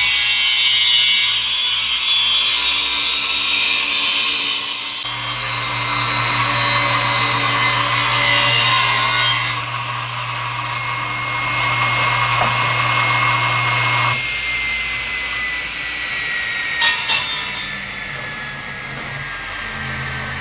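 Electric power saw cutting along the edge of a scrap wood board. About 14 seconds in it is switched off, and its motor winds down with a slowly falling whine.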